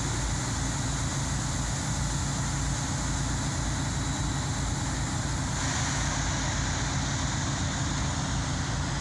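Train at a railway station platform: a steady low rumble with an even hiss, the hiss easing a little about six seconds in.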